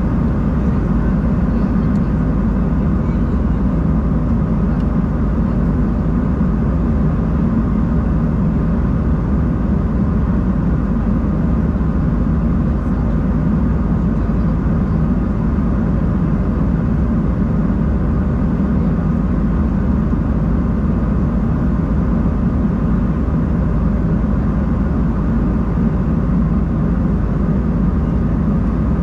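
Steady cabin drone inside an Embraer 190-E2 with its Pratt & Whitney PW1900G geared turbofans running: a low, even rumble of engine and air noise with faint steady tones above it.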